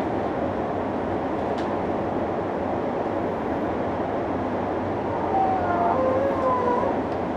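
JR E233 commuter train running slowly, its rumble heard from inside the driver's cab. From about five seconds in there are a couple of seconds of shifting high tones over the rumble, a little louder.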